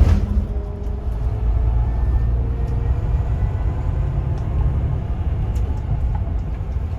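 Steady low rumble of a moving bus heard from inside, engine and road noise together, with a few faint rattles.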